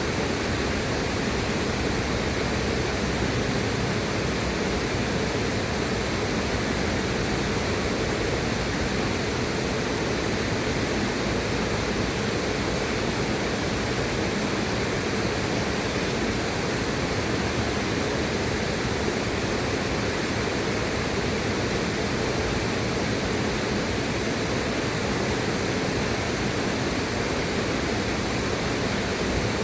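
River water rushing in a steady, even flow, with no changes or separate events.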